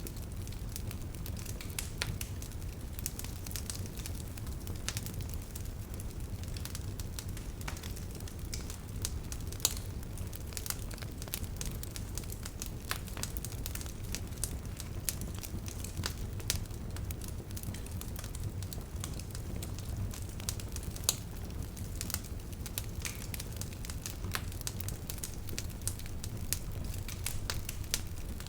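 Wood bonfire crackling: frequent irregular sharp pops and snaps over a steady low rumble of the burning fire.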